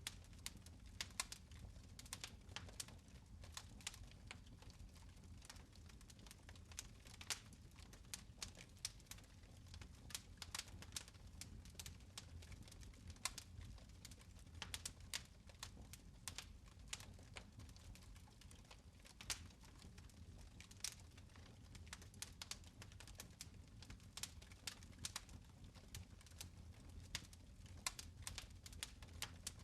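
Fire in a fireplace crackling: sharp, irregular pops and snaps, several a second at times, over a faint low rumble.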